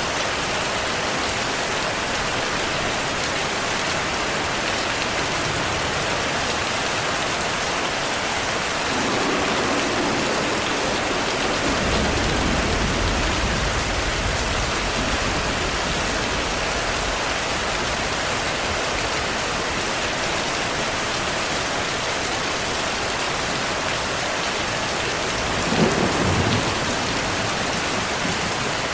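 Steady heavy rainfall hissing throughout. Thunder rolls in as a low rumble about a third of the way through and lasts several seconds, and a sharper, louder thunderclap comes near the end.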